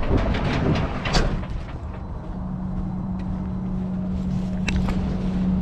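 Semi truck's diesel engine running, with a few clicks and one short sharp noise about a second in, then settling into a steady low hum.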